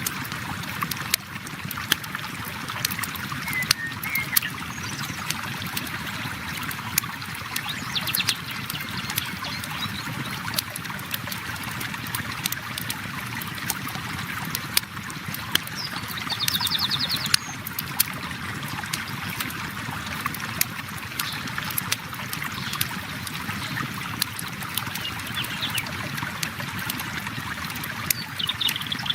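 River water flowing steadily, with a campfire crackling and popping in sharp, irregular clicks. A bird trills briefly a few times, most clearly about halfway through.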